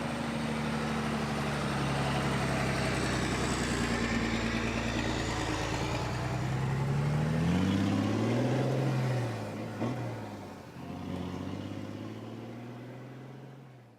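Motor vehicle engine running steadily, then revving with a rising pitch about halfway through, and dying away near the end.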